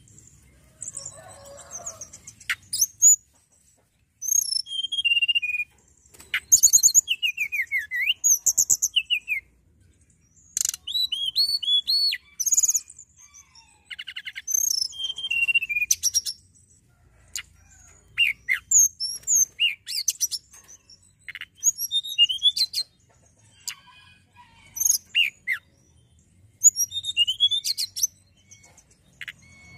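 Tledekan gunung songbird singing: bursts of rapid chirps, quick trills and falling whistled slurs, high-pitched, each phrase lasting a second or two with short pauses between.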